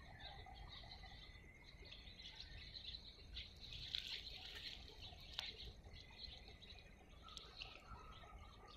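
Faint birds chirping over a low outdoor rumble, busiest around the middle, with a single sharp click about halfway through.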